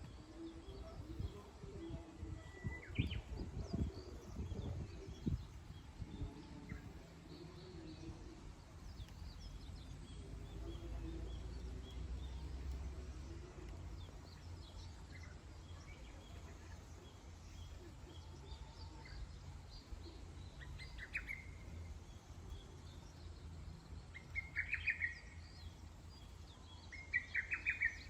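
Wild birds chirping and calling: scattered short bursts of chirps that come more often and louder near the end, over a steady low rumble.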